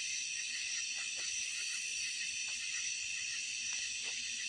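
Night insect chorus in steady, unbroken high-pitched layers, with a few faint scattered ticks.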